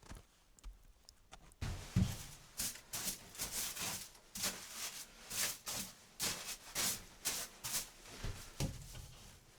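Irregular rustling and handling noises with light knocks, about two or three a second, starting a couple of seconds in.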